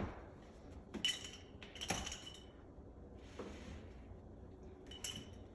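Three light clinks of hard kitchenware, such as glass or dishes, being handled, each with a short ring, plus a brief soft rustle between the second and third.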